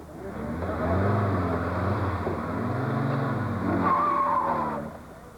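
A classic rally car's engine running hard past, its pitch rising and falling as it revs through the gears. The sound builds in about the first second and fades away near the end, with a brief high squeal just before it fades.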